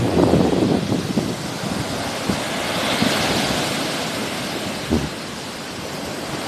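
Sea waves washing onto the shore, a hiss of surf swelling about three seconds in and then easing, with wind buffeting the microphone.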